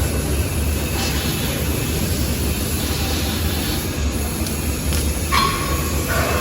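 Large gantry fiber laser cutting machine running, with a steady low rumble and hiss. Short, brighter mechanical sounds cut in about a second in and again near the end.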